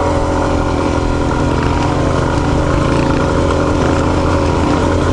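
Dual-sport motorcycle engine running at a steady, unchanging pitch while the bike is ridden.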